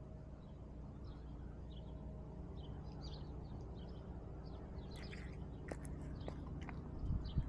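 Faint, scattered small-bird chirps over a low steady background noise, with a few sharp clicks just past the middle and a low thump near the end.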